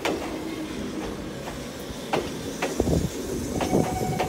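Konan Railway 7000-series electric train standing at the platform just after arriving: several sharp clunks and a hiss of air from the stopped train. About three seconds in, a low rumble and a steady hum start up.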